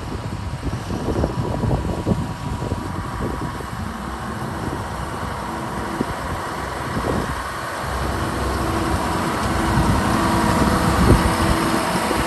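Diesel engine of a 2014 Fendt 828 Vario tractor running steadily, growing a little louder about two-thirds of the way through. Wind buffets the microphone.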